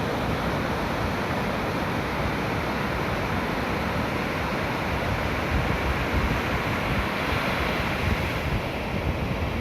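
Ocean surf breaking and washing on a sandy beach, a steady rushing noise, with wind buffeting the microphone.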